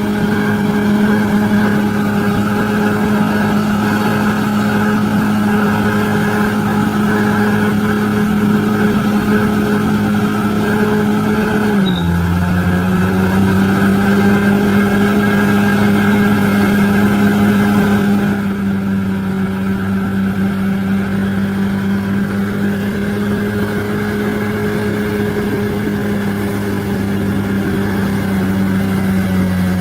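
Bulldozer's diesel engine running steadily; about twelve seconds in its pitch drops a step and it carries on at the lower speed.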